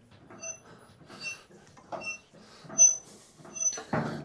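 Harbor Freight motorcycle lift's hydraulic foot pump being pumped to raise the lift, squeaking with each stroke, about one squeak every three-quarters of a second.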